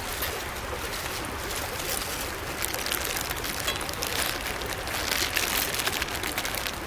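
Small mountain stream running steadily over rocks, with many short splashes and ticks in the flow.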